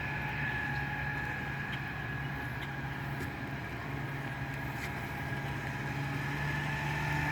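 Outboard motor of an 8-ft mini speed boat running steadily at one pitch, growing gradually louder toward the end.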